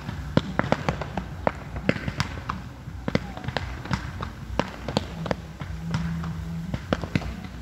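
Fireworks finale: aerial shells bursting in a rapid, uneven run of sharp bangs and pops, several a second.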